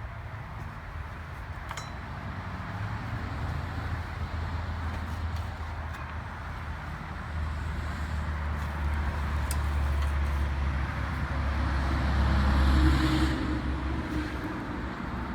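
A motor vehicle passing on a road: a low rumble with tyre hiss that swells to its loudest about 13 seconds in, then fades. A few faint clicks sound over it.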